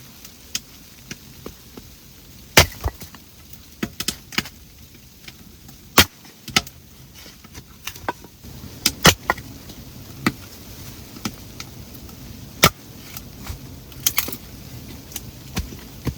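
Sharp knocks and cracks. The four loudest come about three and a half seconds apart, with fainter clicks between them.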